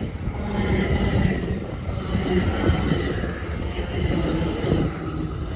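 Commuter train moving through a station: steady rumble of wheels on rail with a faint thin wheel squeal over it.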